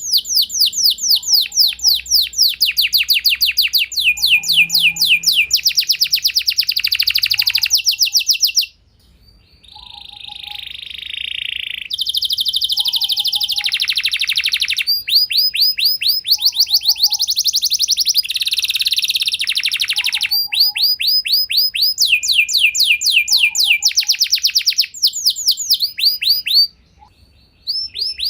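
Domestic canary singing long, rapid trills of repeated downward-sweeping high notes, phrase after phrase, with a buzzy rattling phrase about ten seconds in and two brief pauses.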